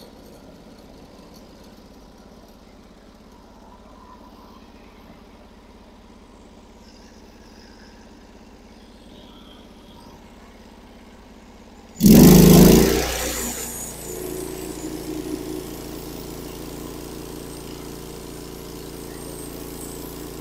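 Norwood HD36 bandsaw mill's engine running quietly at low speed, then about twelve seconds in a sudden loud surge as it is throttled up, settling into a steady, louder run for the next pass.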